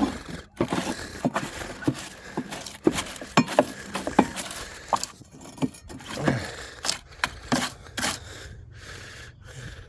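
Irregular scraping, clicks and knocks as dried grass clippings are scraped and knocked out of a plastic lawnmower's housing by hand.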